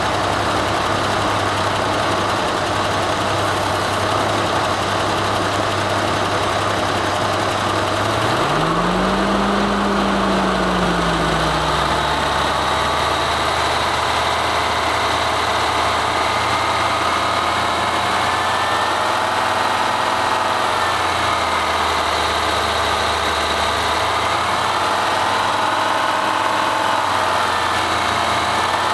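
Big engine running steadily, its speed rising and easing back once about eight seconds in.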